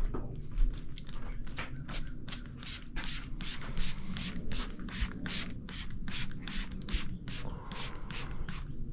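Rapid, rhythmic strokes of a stiff bristle brush, about three a second.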